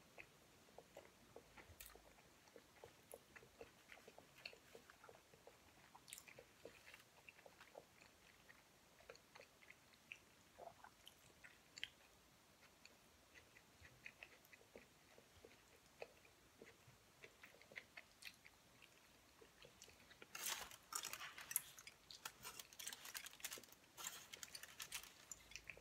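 Faint chewing of sushi rolls, with soft wet mouth clicks. About twenty seconds in comes a louder spell of crackling as chopsticks pick a roll from a foil-lined tray.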